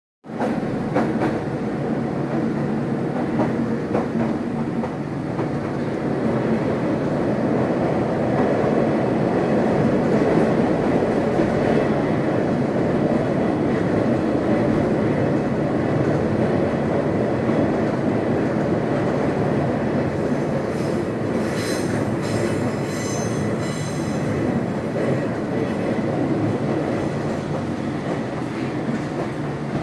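Nankai Kōya Line 'Tenku' sightseeing train heard from inside the carriage as it runs: a steady rumble of wheels on rail and running gear. About two-thirds of the way through, high wheel squeal comes in on a curve.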